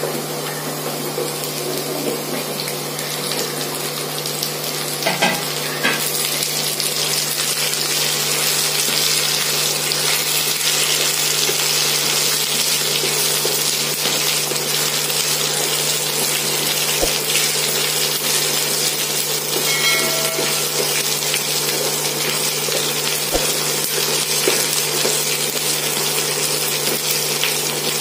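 Chopped drumstick (moringa) pieces frying in hot oil with browned onions in a non-stick pan, stirred with a wooden spatula. The sizzle gets a little louder about six seconds in.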